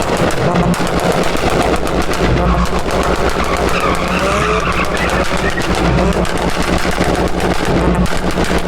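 Car engine revving hard with a rapid stuttering crackle, and tyres squealing briefly about four seconds in.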